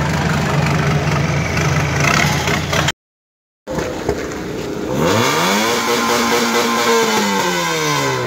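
A lifted Isuzu pickup's engine running with a steady low hum, cut off suddenly about three seconds in. After a short silence, a car engine is revved, its pitch rising and then falling over about three seconds.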